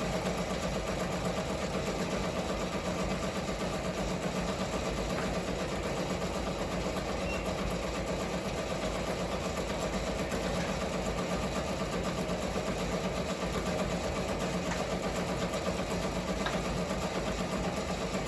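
Ricoma MT-1501 embroidery machine stitching at a steady speed, a fast, even mechanical clatter. It runs louder than usual with a smacking noise whose cause the technician can't find. The noise is not stopping the machine or spoiling the stitching.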